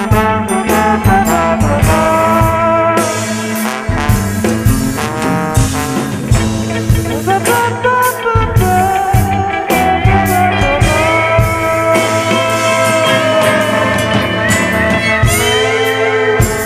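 A band playing an instrumental break in a bluesy song: drums keep a steady beat under held and moving instrumental melody lines, with no singing.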